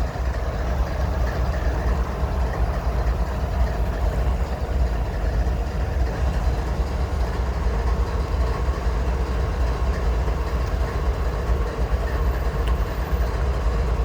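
An engine idling: a steady low rumble that doesn't change.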